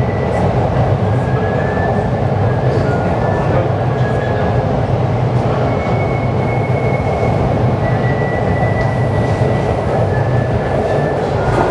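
A Chuo Line E233 series electric commuter train passing close by on a curve with a steady rumble of wheels on rail. Faint high squeals come and go several times as its wheels take the curve.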